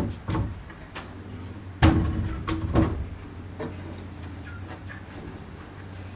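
A series of irregular knocks and thumps, the loudest about two seconds in, with quieter ones following.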